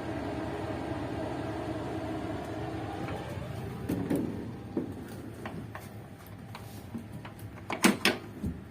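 Passenger train noise: a steady running hum that fades after about three seconds, then scattered clicks and knocks, the two loudest close together near the end.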